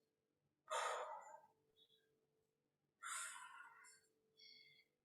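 A woman breathing hard from exertion during weighted squats: two forceful exhales, about two seconds apart.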